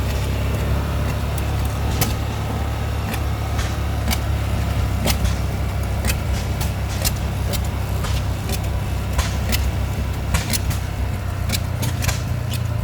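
Engines running with a steady low rumble, with many sharp, irregular clicks and knocks over it. The sound comes from a slowly moving ride past running stationary oil field engines.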